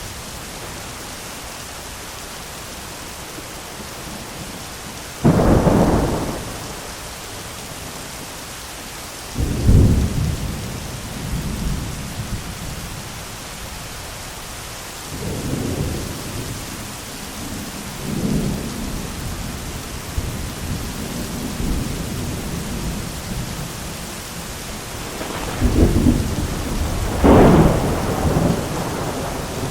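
Thunderstorm: steady rain hiss with thunder throughout. A sharp crack of thunder comes about five seconds in, a deep boom about ten seconds in that rumbles on, softer rolling rumbles in the middle, and two close loud claps near the end.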